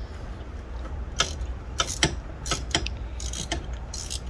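Ratchet wrench clicking in short, irregular strokes as it turns a new spark plug home through an extension and swivel.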